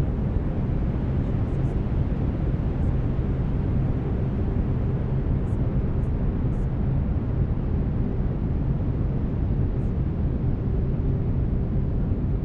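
Brown noise: a steady, deep, even hiss, with faint steady low tones beneath it from binaural beats.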